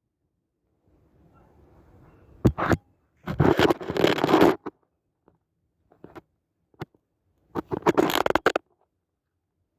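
Bursts of scraping and crunching handling noise: a short one, a longer one of about a second, then another of about a second, with a few single clicks between.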